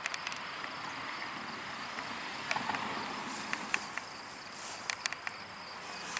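Steady high-pitched chorus of insects, such as crickets, over a soft breeze hiss, with a few sharp clicks near the middle.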